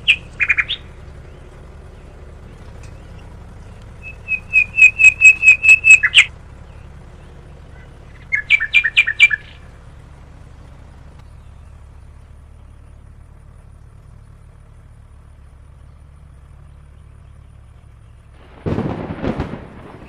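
A bird calling in two runs of rapid, sharp repeated notes, the first about four to six seconds in and growing louder, the second shorter, around eight to nine seconds in. A low steady hum lies underneath, and a short rough noise comes near the end.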